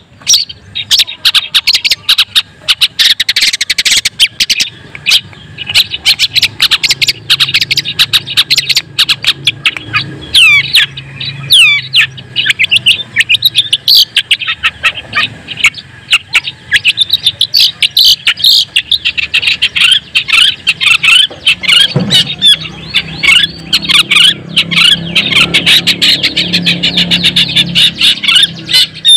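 Long-tailed shrike (white-breasted 'cendet daput') singing a fast, dense run of sharp chattering notes and quick whistled glides, with hardly a pause.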